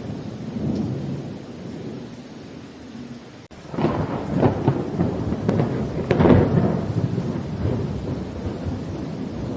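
Thunderstorm with rain: low rolling thunder, then about a third of the way in a louder crackling thunderclap with several cracks, loudest near the middle, that rumbles away again.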